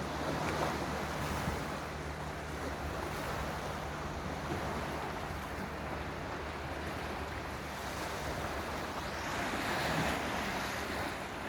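Sea waves washing in, with wind buffeting the microphone; the surf swells louder about half a second in and again near the end, over a faint low steady hum.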